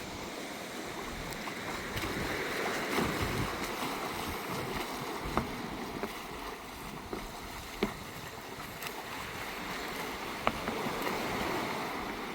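Sea water washing onto the shore, a steady wash that swells twice, with a few faint clicks.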